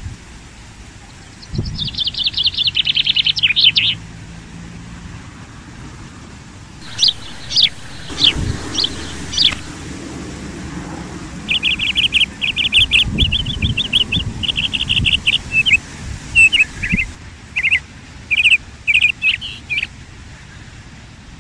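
Birdsong: a small bird singing bursts of rapid, chattering high trills with some separate sharp notes between them, over a low background rumble.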